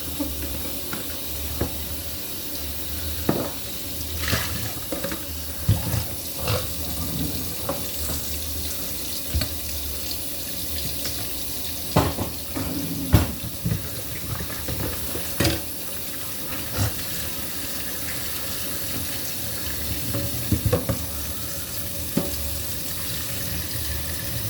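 Steady rushing hiss, like water running from a tap, with scattered small clicks and knocks.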